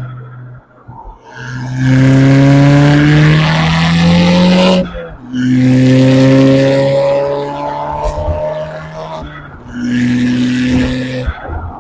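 Car engine and exhaust under hard acceleration: revs climb steadily, drop sharply at a gear change about five seconds in, pull again, then ease off before a last shorter burst of throttle near the end.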